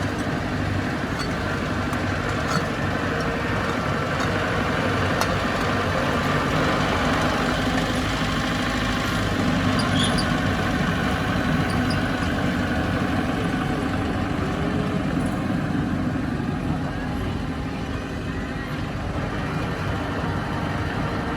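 Diesel engine of heavy earthmoving machinery running steadily at work, with a few faint clicks in the first few seconds.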